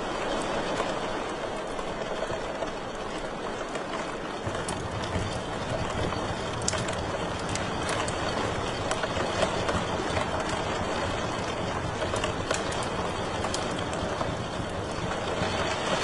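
Wood fire in a fireplace crackling, with scattered sharp pops and snaps over a steady low rushing roar of the flames.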